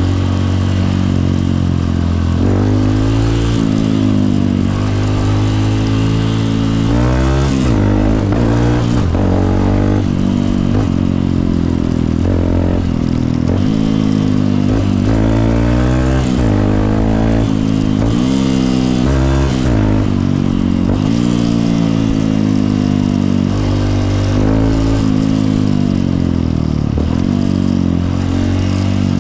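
Honda CRF150L's single-cylinder four-stroke engine under way, its pitch climbing as it accelerates and dropping back again and again through gear changes and throttle lifts.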